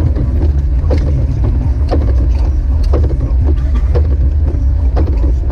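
Jeep Wrangler YJ driving, a loud, steady low engine and road rumble, with light regular clicks or knocks about twice a second.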